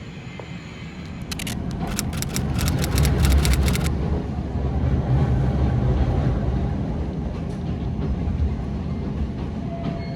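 Electric train's low rumble and hum, with a quick run of sharp hissing clicks about a second in.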